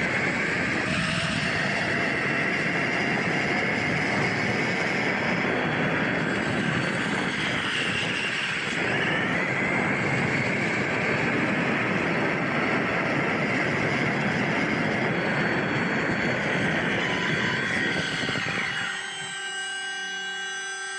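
1/4-scale Losi Promoto-MX electric RC motorcycle running, its motor and drivetrain giving a high whine that rises and falls with speed over a steady rushing noise. It drops away about two seconds before the end.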